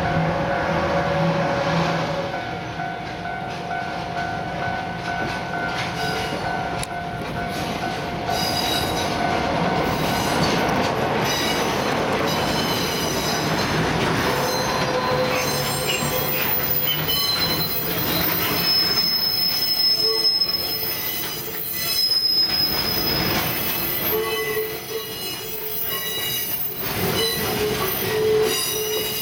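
Freight cars moving slowly behind the DD35 2 diesel switcher locomotive, with high-pitched wheel squeal from about eight seconds in. Scattered knocks of wheels and couplings run under the squeal, and the locomotive's engine hums steadily at the start.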